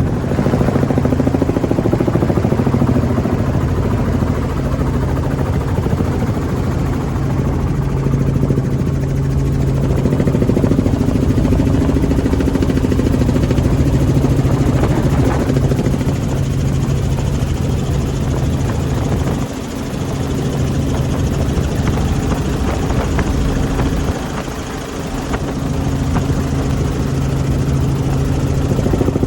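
Helicopter running steadily: a constant, loud drone of engine and rotor with a low, even hum, dipping briefly twice in the second half.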